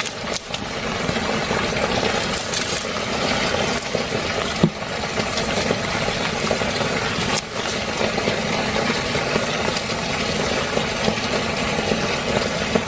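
Heavy rain drumming on a tarp shelter, mixed with a gas camp stove's burner running under a wok, a steady dense noise. Two sharp clicks cut through it, about five and seven seconds in.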